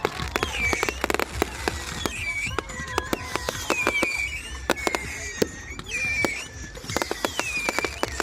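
Fireworks crackling: many sharp pops and snaps, with a high whistling tone that dips and rises about once a second.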